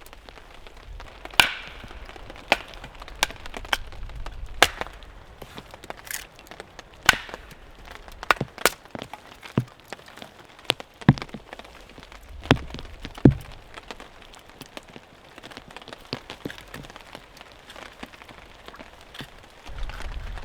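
Wood cracking and snapping in sharp, irregular cracks, some with a dull thump beneath, over a steady patter of rain.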